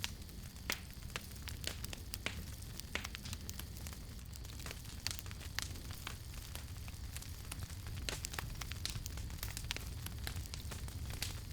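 Wood campfire burning with irregular sharp crackles and pops over a steady low rumble of the flames.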